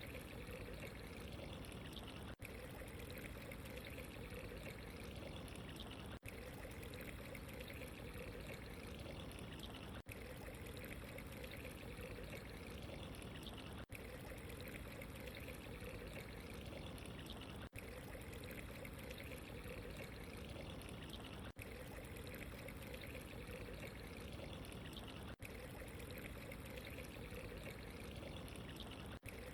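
Steady running water, a continuous trickling pour, with a very brief dip in level about every four seconds.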